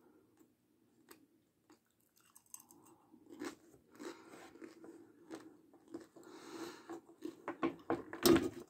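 Close-miked chewing of a mouthful of batata palha, thin crispy fried potato straws: soft crunches and wet mouth clicks that grow busier after about three seconds. A sharp, louder click comes near the end.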